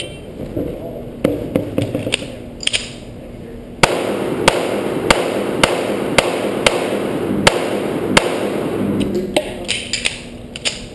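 Taurus PT1911 .45 ACP pistol firing a stage string: a few shots in the first three seconds, then a steady run of about one shot every half second to second from about four seconds in, and a few more near the end.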